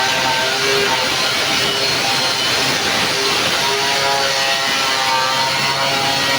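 Steady, loud hissing whir of a power tool running without a break, with guitar background music playing under it.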